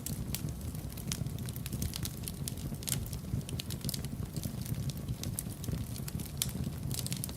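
Wood fire crackling in a fireplace: a steady low rumble of burning with scattered sharp crackles and pops, a few louder pops about three seconds in and near the end.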